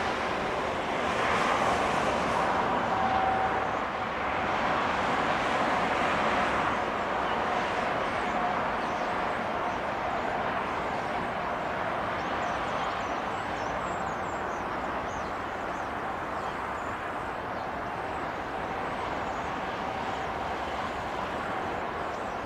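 Jet engine noise from an Airbus A330-243F freighter's Rolls-Royce Trent 700 engines: a steady rush with a faint whine, louder for the first several seconds, then easing to a lower even level.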